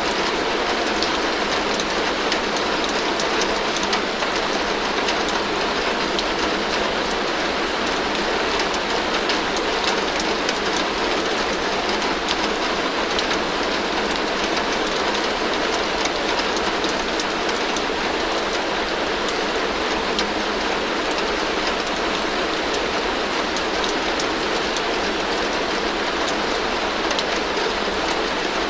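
Heavy rain falling steadily on a tin roof: a continuous even hiss with many sharp individual drop hits on the metal.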